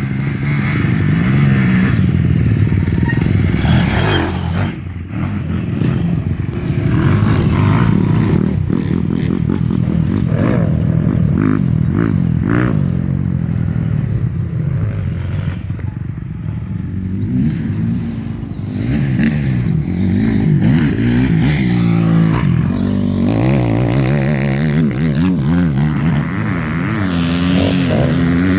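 KTM 950 Adventure's V-twin engine revving hard and dropping back again and again as the motorcycle is ridden, its pitch rising and falling repeatedly.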